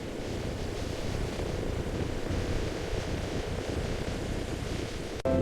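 Steady rushing, rumbling noise, heaviest in the low range, with no separate knocks or tones.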